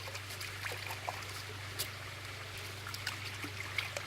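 Running water trickling steadily, with scattered light clicks and rustles over it.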